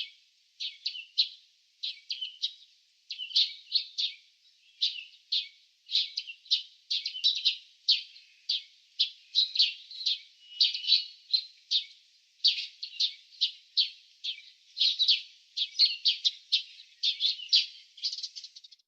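Small songbirds chirping: a steady stream of short, high chirps, several a second, in quick clusters, breaking off suddenly at the end.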